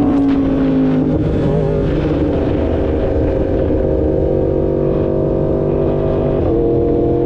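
2016 Yamaha R1's crossplane inline-four running at low revs: the engine note falls over the first second as it comes off the throttle, holds steady, then steps up slightly near the end.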